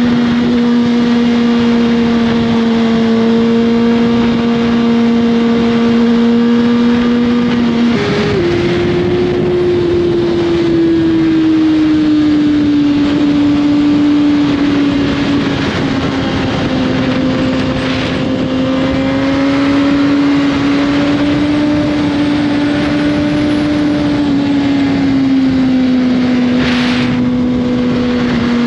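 2021 Suzuki GSX-R1000 inline-four with an Austin Racing slip-on exhaust running on the road, its engine note holding steady, then stepping up about a third of the way through and slowly easing back down to a steady drone, with a constant rush of noise underneath.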